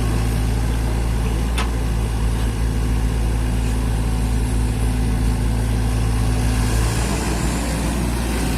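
Mini excavator's diesel engine running steadily, its note changing about seven seconds in.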